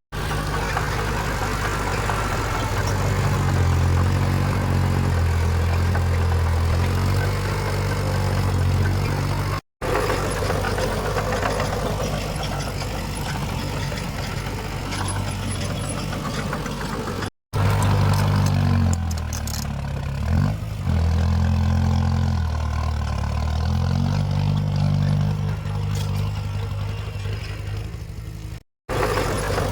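Heavy diesel earthmoving machinery running, its engine note rising and falling as it works under load. It comes in several clips joined together, with three brief dropouts between them.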